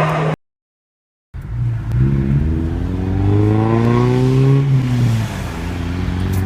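Car engine accelerating, its pitch rising steadily for about three seconds, then dropping back as the driver eases off, and settling into a steady cruise.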